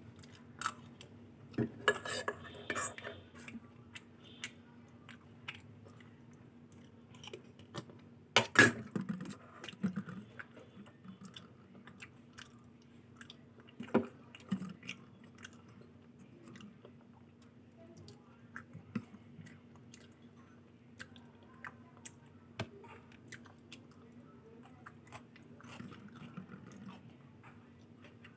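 Close-miked chewing and wet mouth sounds of someone eating luchi (puffed fried flatbread) with ghughni and potato curry, full of small clicks and smacks, with a louder clatter about eight and a half seconds in.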